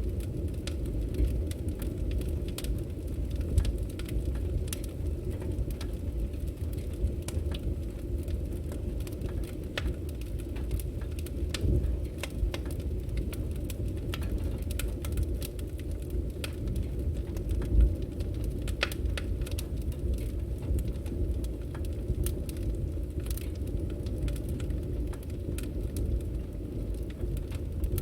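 Wood fire burning: a steady low rumble of the flames with irregular crackles and pops from the burning logs, a few pops louder than the rest.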